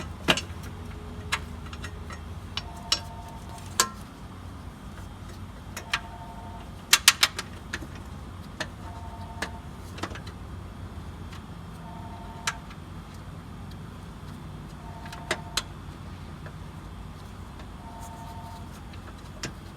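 Scattered sharp metallic clicks and knocks of hand tools working the battery tray bolts, with a quick cluster of clicks about seven seconds in. Under them runs a low steady hum, and a short two-tone beep repeats about every three seconds.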